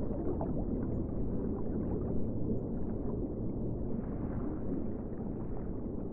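Sea water churning and sloshing in a steady low rush with small crackles through it. It cuts off suddenly at the very end.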